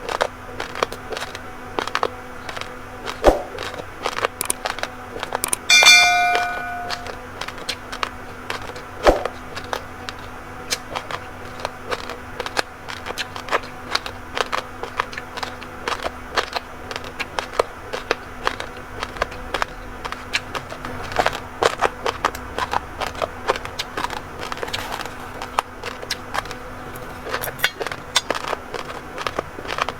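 Raw rice grains crunched and cracked between the teeth, a dense run of sharp cracks. About six seconds in, a single ringing ding sounds and fades over about a second.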